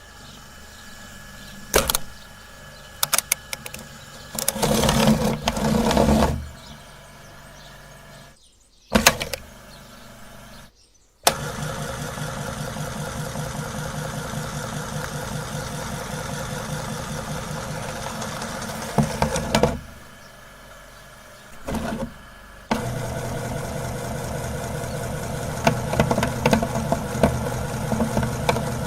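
Electric meat grinder motor switched on, running with a steady hum, switched off, then started again with irregular clattering spikes over the hum. Before it first starts there are a few sharp knocks and two louder rattling bursts of noise.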